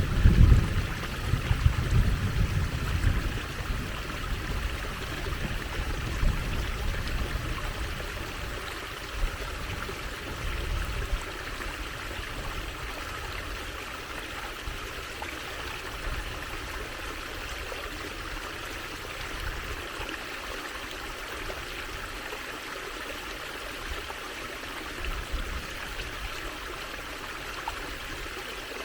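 Water trickling and running steadily, like a small stream, with uneven low rumbles in the first ten seconds or so that are loudest at the very start.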